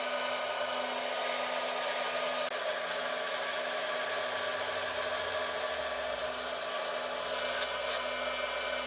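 Power tool running steadily as it works wood, a continuous machine hum with noise over it, and a small tick near the end.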